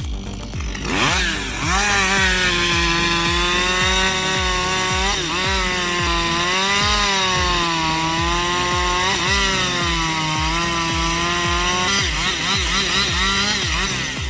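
Two-stroke chainsaw revving up about a second in, then held at full throttle while cutting, its pitch sagging and recovering several times as the chain loads in the wood. Background music with a steady beat underneath.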